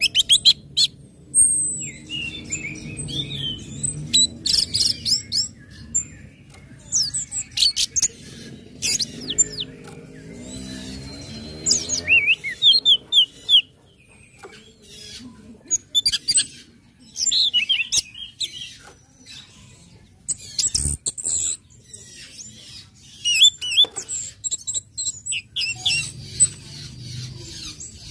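Orange-headed thrush singing in rapid bursts of high, sweeping chirps and whistled notes, with short pauses between phrases.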